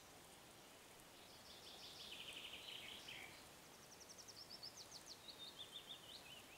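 Faint songbird song over quiet outdoor ambience: a rapid high trill, then a second run of quick notes stepping down in pitch.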